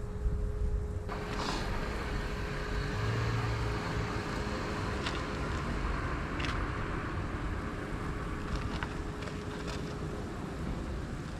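Pressure washer running, its spray hissing against the truck's frame from about a second in and easing off near the end, over a steady engine-like rumble.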